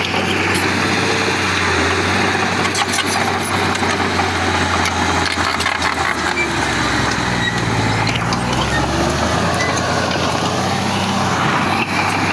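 Heavy diesel engine of earthmoving machinery running under load. Its steady low drone sags in pitch about six seconds in and picks back up a few seconds later, with scattered clicks and knocks over it.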